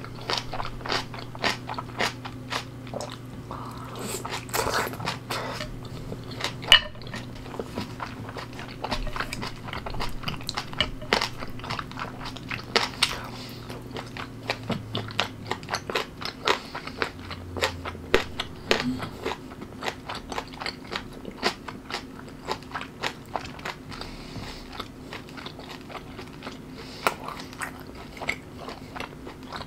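A person chewing crunchy food close to the microphone, with irregular sharp crunches and bites several times a second.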